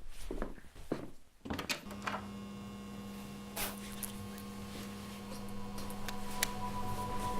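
A few knocks and clicks, then a steady hum with several fixed tones that slowly grows louder.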